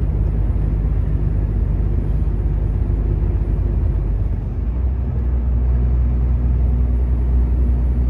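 Volvo truck's diesel engine running steadily under way, heard from inside the cab over a constant road and tyre noise. About halfway through, the low engine tone grows stronger.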